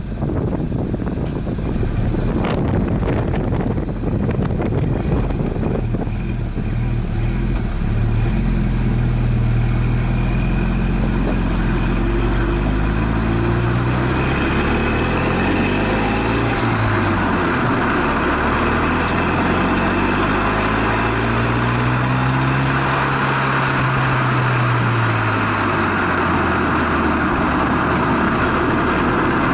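Renault Megane Estate GT220 exhaust note under hard circuit driving: engine revs climb and drop repeatedly as it accelerates through the gears, with a long pull and lift-off near the end. There is gusty wind noise in the first few seconds.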